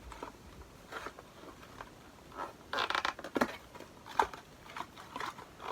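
Cardboard advent calendar door and product box being opened and handled: light scrapes and taps, a short rasp of cardboard sliding about three seconds in, then a few sharp ticks.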